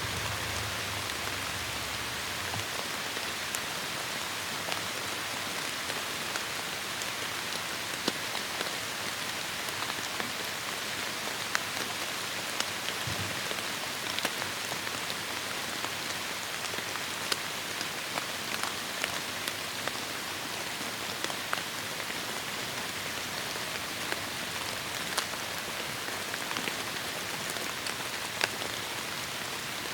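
Heavy rain falling steadily on forest foliage, a constant hiss with many distinct drops striking close by.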